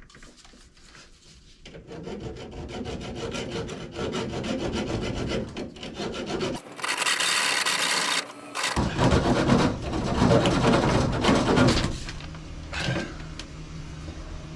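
A saw rasping back and forth, cutting through the leaking pipe fitting, with a loud hiss of about two seconds around the middle.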